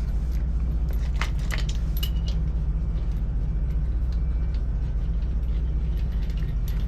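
Steady low mechanical drone, with a few light metallic clinks about a second in, typical of tools and wheel parts handled during a truck tyre change.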